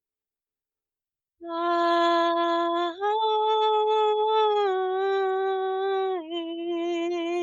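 Silence for about a second and a half, then a woman singing light language: long held wordless vowel tones, each note sustained for a second or more, stepping to a new pitch about three times.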